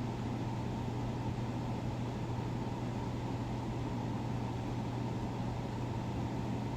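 Steady mechanical background hum with a low drone and an even hiss, unchanging throughout.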